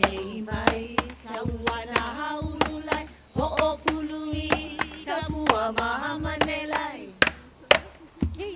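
Hawaiian chant for hula, sung with long held notes and accompanied by sharp percussion strikes about two to three times a second.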